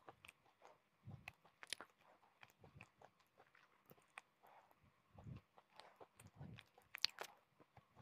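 Close-miked chewing of hard, chalky pieces: soft, irregular crunches and small clicks, with low dull thuds from the jaw every second or two and one sharper crack about seven seconds in.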